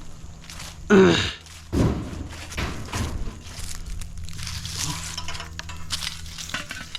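Scrap metal being handled and thrown into a pickup bed. About a second in there is a loud scrape with a falling screech, and just under two seconds in a heavy clank. Scattered lighter knocks and rattles follow.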